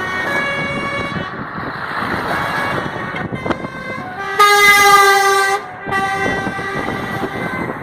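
Truck horns sounding over and over, several horns of different pitches overlapping, with one loud long blast of about a second near the middle.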